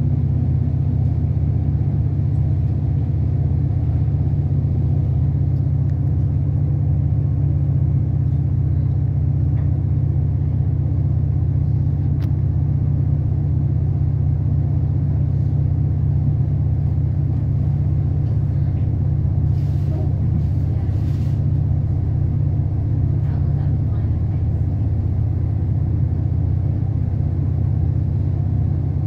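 Steady low rumble of an Irish Rail passenger train running at speed, heard from inside the carriage, with a few faint ticks about two-thirds of the way through.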